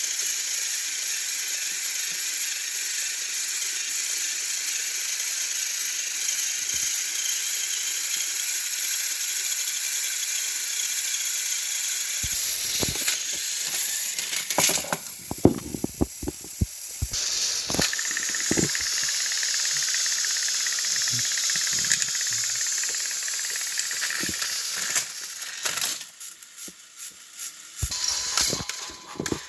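Battery-powered Thomas & Friends toy engines running against each other in a pushing contest, their motors giving a steady high whirring hiss. Partway through come a run of sharp plastic clicks and rattles, and the whirring drops away near the end.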